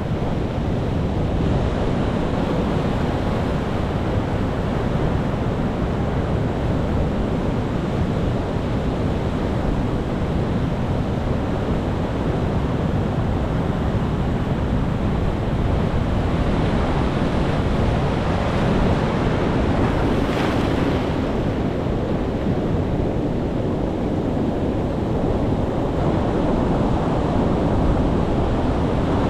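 Sea waves breaking and washing in a continuous low rumble, with one wave swelling to a brighter hiss about two-thirds of the way through.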